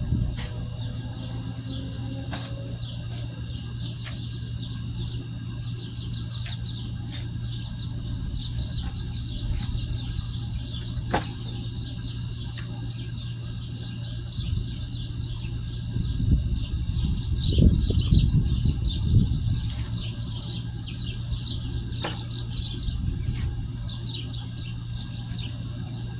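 Many small birds chirping at once, a dense run of quick high chirps, over a steady low hum. A stretch of low rumbling noise rises in the middle.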